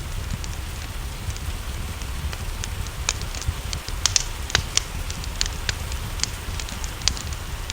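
Wood fire crackling, with irregular sharp pops several times a second, over a steady wash of rain and a low rumble.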